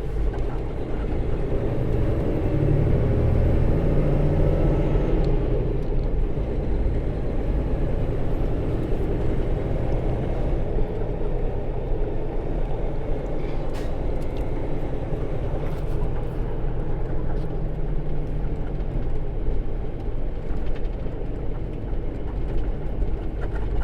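Semi truck engine and road noise heard from inside the cab while driving, a steady low rumble. The engine note rises over the first few seconds, then holds.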